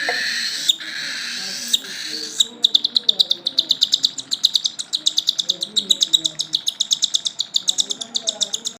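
Cockatiel calling: first a steady, hissy call broken by a few clicks, then, from about two and a half seconds in, a fast, even run of short high chirps, roughly nine a second.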